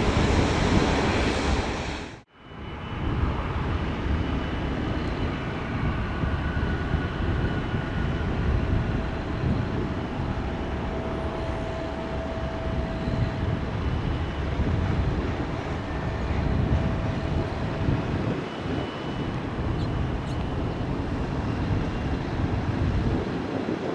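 Airbus A350's Rolls-Royce Trent XWB turbofan engines running with a steady rumble and a faint whine. The sound cuts out sharply about two seconds in, then carries on slightly quieter.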